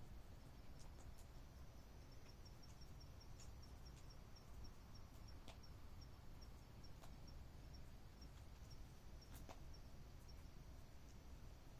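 Near silence with a faint insect chirping high and steadily, short pulses about three a second, and a few faint sharp clicks.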